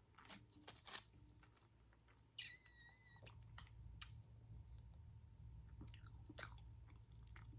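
Close-miked chewing and crunching of a battered Korean cheese corn dog, with crisp bites clustered near the start and again about six seconds in. About two and a half seconds in there is a brief wavering high-pitched squeak lasting nearly a second.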